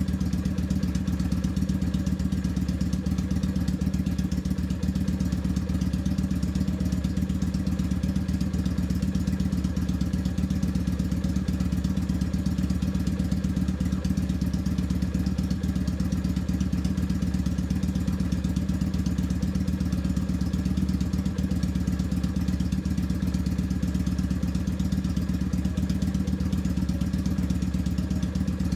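Honda Shadow VT600's V-twin idling steadily through an aftermarket 2-into-1 exhaust, giving a very deep, even exhaust note.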